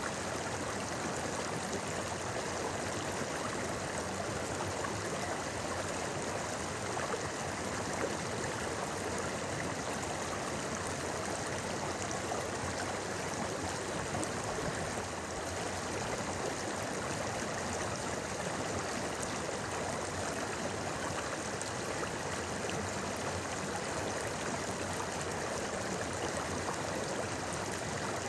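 Clear river stream flowing and babbling over stones, a steady, even rush of water.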